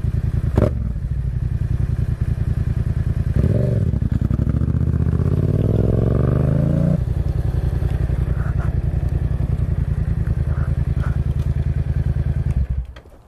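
Motorcycle engine running at low speed, with a sharp knock about half a second in. The engine note climbs for a few seconds, drops back to a steady low putter, and then cuts off suddenly near the end as the engine is switched off.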